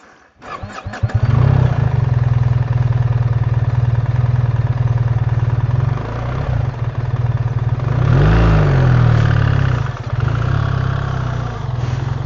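BMW R 1300 GS Adventure's boxer-twin engine cranked on the starter and catching within about a second, then idling steadily. There is a brief rev up and back down about eight seconds in.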